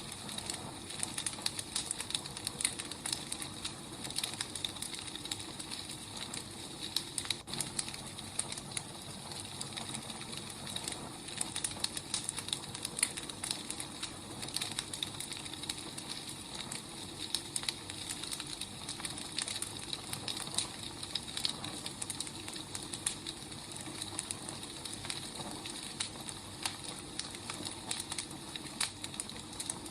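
Wood fire burning steadily, with a constant hiss and many small, irregular crackles and pops.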